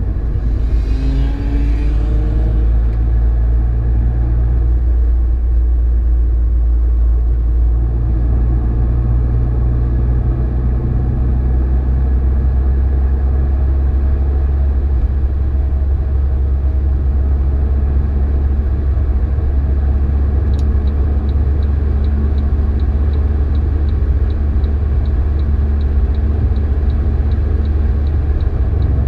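Car engine and road noise at speed, heard from inside the cabin: a steady, loud low drone, with the engine note rising in the first couple of seconds as the car accelerates. A faint, regular high ticking joins about two-thirds of the way through.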